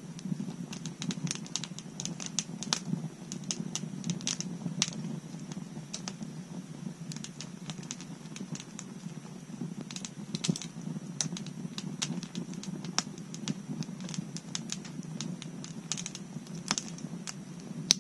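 Wood bonfire crackling: a steady low rush of burning with many irregular sharp pops and snaps, thickest in the first five seconds and again around the tenth second.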